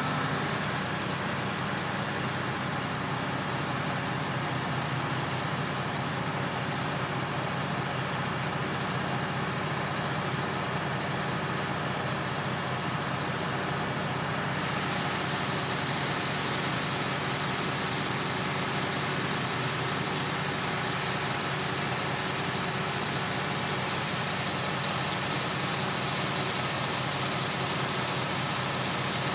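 Concrete mixer truck's engine running steadily. A hiss joins about halfway through and holds.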